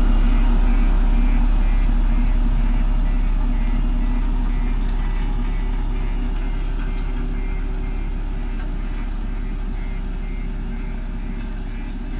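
JCB backhoe loader's diesel engine running steadily, growing gradually quieter.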